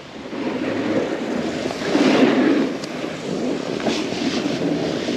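Snowboard sliding and scraping over snow, a rushing noise that swells to its loudest about two seconds in, with wind buffeting the microphone.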